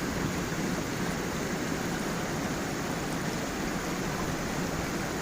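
Stream running over a small waterfall: a steady, even rush of water.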